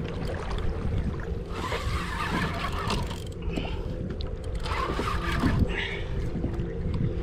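Water sloshing and splashing against a fishing kayak's hull over a steady low rumble of wind and sea, with splashier patches about a second and a half in and again about five seconds in.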